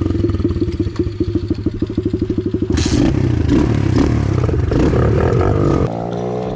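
Small pit bike engine running just after a kick start: a quick, even pulsing at first, then louder revving, dropping suddenly to a quieter, steadier tone near the end.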